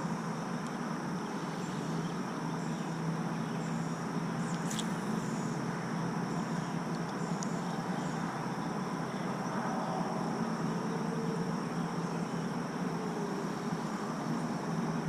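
Steady drone of insects, with a constant low hum underneath and one short sharp sound about five seconds in.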